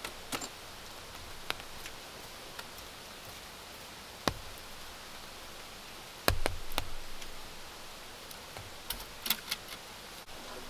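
Steady hiss of rain, with scattered sharp taps and knocks: a louder knock about four seconds in, a loud cluster of knocks just past six seconds, and a few quick clicks near the end.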